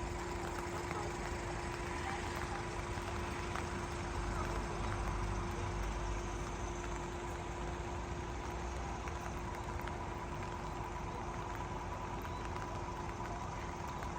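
Car engine running at low revs, heard from inside the cabin, with a steady hum. The low rumble swells slightly about five seconds in.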